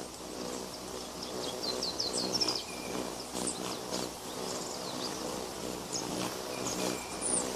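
Wild bird calls: a quick series of high chirps about two seconds in, then a few scattered single calls, over a steady low hum.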